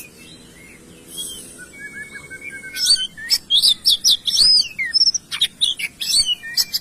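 Songbird singing: a thin drawn-out whistled note, then from about three seconds in a rapid run of loud, high, arched chirps several a second.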